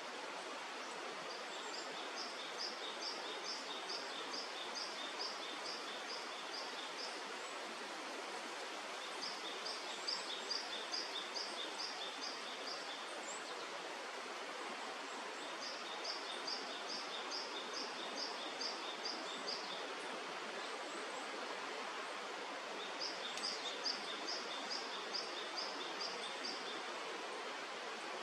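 A bird calling in four runs of quick, evenly repeated high notes, each run lasting a few seconds, over the steady rush of a river.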